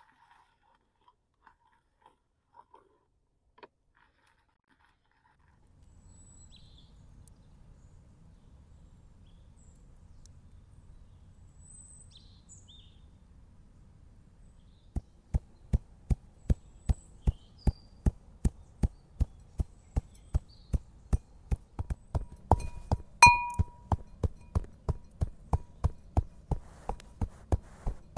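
Rhythmic knocking, about three sharp strikes a second, starting about halfway through, with one louder strike that rings like metal. Birds chirp over a low, steady rumble.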